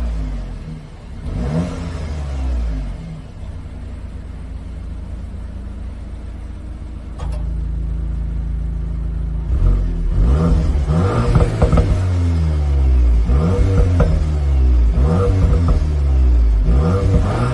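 Car engine running with a steady hum through the middle, then revved over and over in quick rises and falls, about one every second and a half to two seconds, in the last part.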